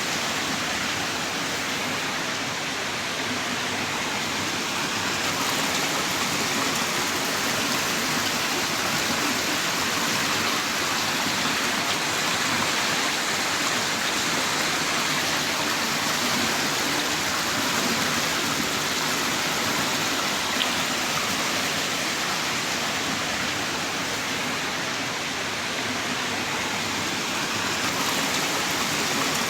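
Heavy rain pouring down in a steady, even hiss, with one faint tick about two-thirds of the way through.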